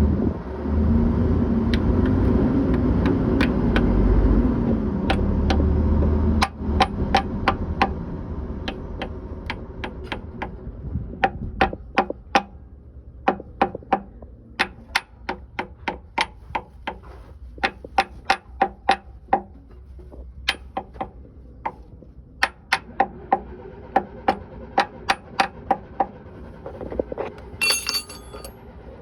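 A vehicle engine runs loudly for about the first six seconds, then dies away. After that a hammer strikes metal again and again, irregularly, about one or two blows a second, each with a short metallic ring, and a brief metallic jingle comes near the end.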